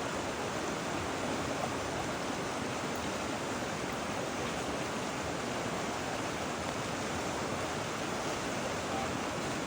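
Creek water rushing steadily over rocks, an even unbroken rush.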